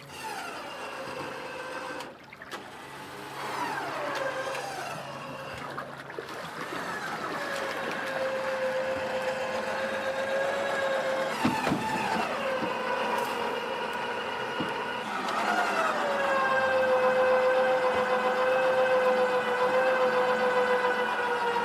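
Tow truck's winch whining as it pulls a vehicle on the line, starting about four times; each time the pitch slides down as it takes up the load and then holds steady, louder in the last pulls.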